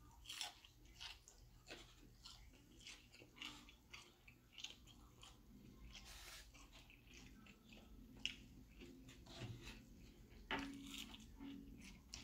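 A person chewing fried food close to the microphone, with faint, irregular crunches and wet mouth clicks.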